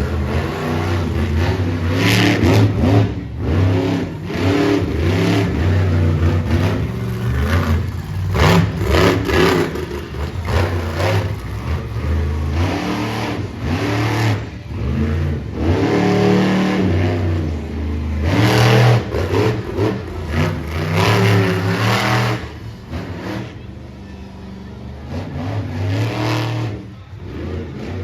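Monster truck engine revving hard in repeated bursts, its pitch rising and falling over and over, with a quieter spell a little before the end.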